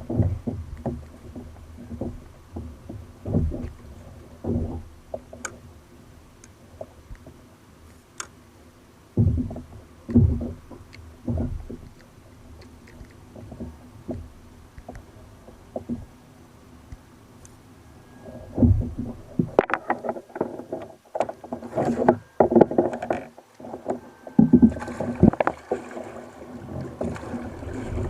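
Water splashing and knocking against a kayak hull on the sea, in scattered low thumps about a second apart, growing busier and splashier in the last third.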